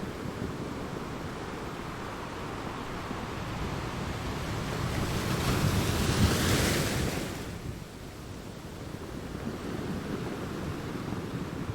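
Ocean waves washing in steadily, with one wave building and crashing in a loud hiss about six seconds in, then drawing back.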